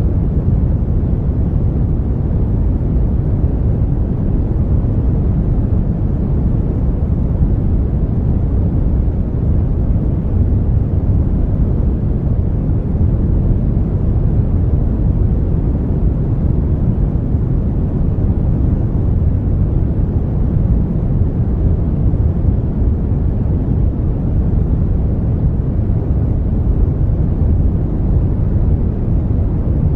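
Brown noise: a steady, even low rumble of synthetic noise, strongest in the bass and falling away toward the highs, with no changes or events.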